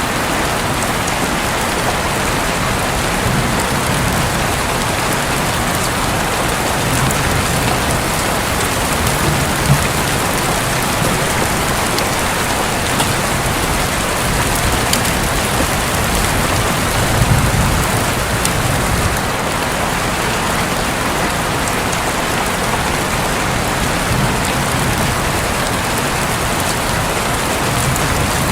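Heavy rain falling steadily on a roof, with a few low rumbles of thunder swelling up, the strongest about two thirds of the way through.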